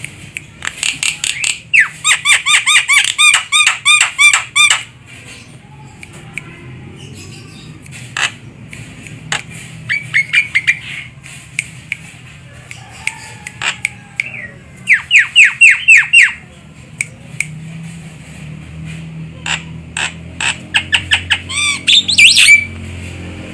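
Javan myna calling: bursts of rapid, harsh, repeated notes, each burst a second or few long, with pauses between and a last run of rising, squealing notes near the end.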